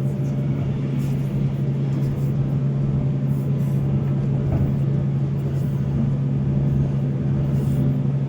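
Diesel engine of a Volvo excavator running at a steady, unchanging pitch, with a low rumble beneath and faint light ticks now and then.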